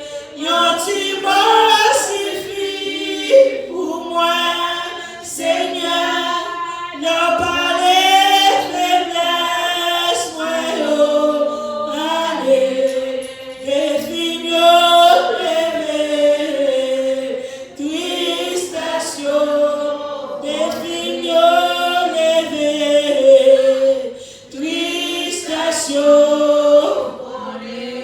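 Congregation singing a hymn together, a mix of women's and men's voices holding long notes that waver in pitch, with short breaks between phrases.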